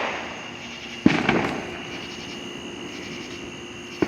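Fireworks going off: a sharp bang about a second in, followed briefly by crackling, and another bang near the end, as the tail of an earlier bang fades out at the start.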